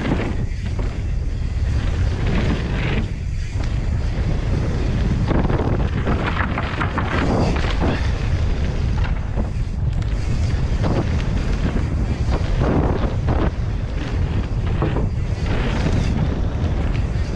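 Mountain bike ride on a rough trail, with wind buffeting the microphone as a steady low rumble. Irregular rattles and clatter run through it as the bike rolls over rough ground.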